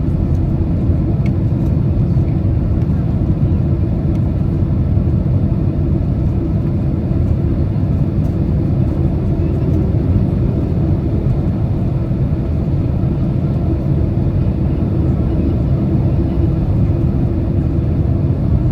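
Steady low rumble of engine and airflow noise inside a Boeing 767's passenger cabin during the approach to landing.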